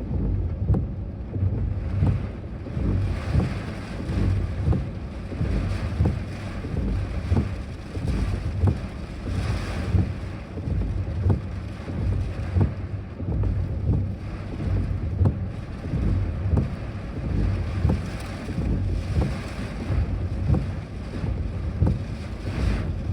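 Strong typhoon wind buffeting the microphone: a low, gusty rumble that swells in short peaks every second or two.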